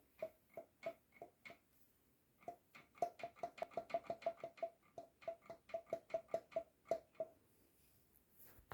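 A run of light metallic clicks, each ringing briefly at the same pitch. A few come in the first second and a half, then a faster run of about four a second from about three seconds in until about seven seconds in.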